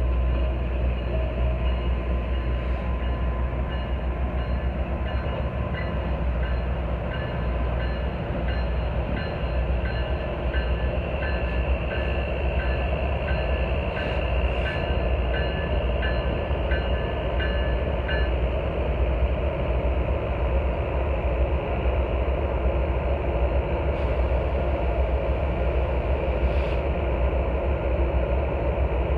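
Streamlined passenger railroad cars rolling past steadily, their wheels and trucks giving a continuous rumble on the rails. For a stretch in the middle there is a regular series of short high squeaks about two a second, and a few brief clicks are heard.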